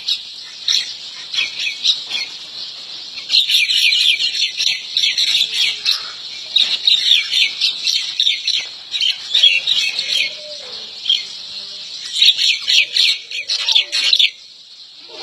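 Small birds chirping rapidly and densely, in several long bursts of high calls with quieter stretches between, and a few lower calls near the end.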